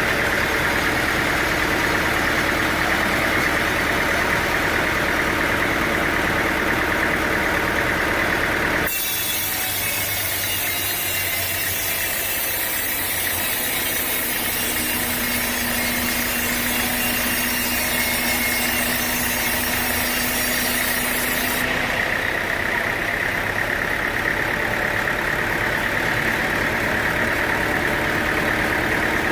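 Sawmill machinery running steadily, an engine-driven mill with a constant hum and a steady higher whine. About nine seconds in the sound switches abruptly to a hissier, thinner mix with a faint held tone, and it switches back about thirteen seconds later.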